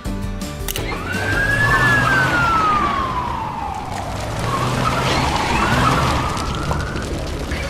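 Siren wailing: its pitch rises quickly, falls slowly over a couple of seconds, then climbs again near the end.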